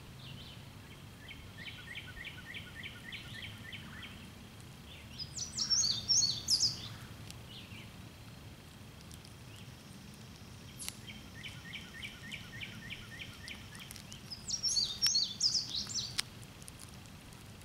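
A songbird singing the same song twice. Each song is a run of evenly spaced notes, about four a second, followed by a louder, higher jumbled phrase.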